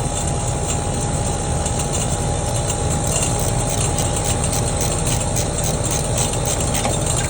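Central air conditioner's outdoor condensing unit running steadily, compressor and condenser fan together, while pumping the refrigerant down out of the lines into the unit with the liquid-line service valve closed. It cuts off abruptly at the very end as the line side runs nearly empty.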